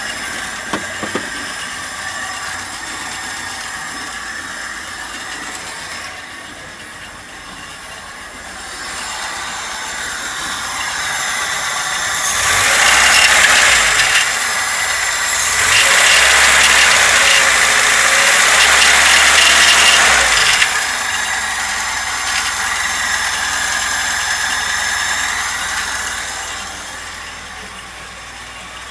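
VAZ-2103 engine idling, revved up twice around the middle and held for a few seconds each time, then dropping back to idle. Extraneous noises in the engine are what the owner is demonstrating.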